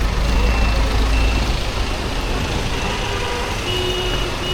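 Rain hiss with street traffic: a heavy low vehicle rumble in the first couple of seconds, and several short high beeps.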